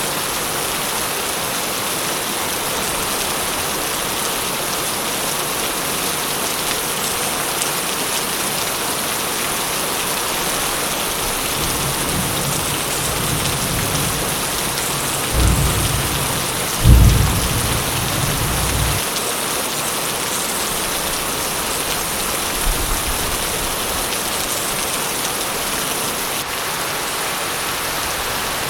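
Steady heavy rain falling. A roll of thunder builds about twelve seconds in, with two sharp cracks a second and a half apart, the second the loudest, rumbling away after a couple of seconds, then a faint short rumble a few seconds later.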